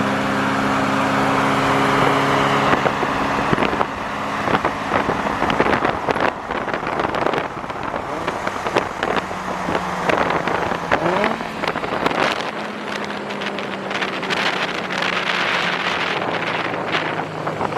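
A car on the move: its engine runs steadily under road noise, and from about three seconds in many short clicks and rattles pile on top.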